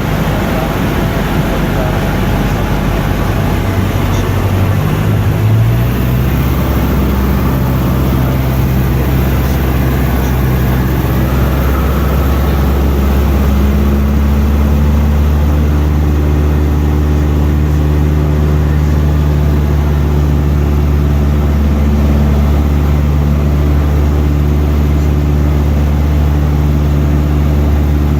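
Cessna 152's four-cylinder Lycoming O-235 piston engine and propeller running steadily in flight, its note shifting about six seconds in with a change of power.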